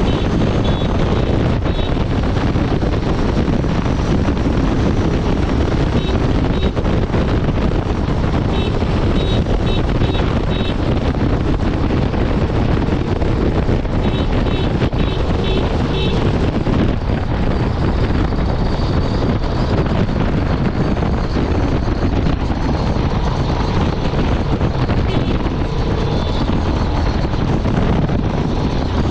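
Honda Transalp 750's 755 cc parallel-twin engine and exhaust running steadily at highway speed, heavily overlaid by wind rushing over the microphone.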